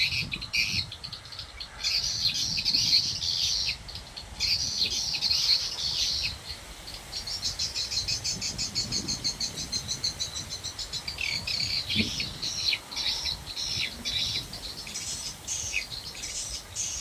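Swiftlets twittering: repeated bursts of high, rapid chirps, with a quick even run of chirps about halfway through.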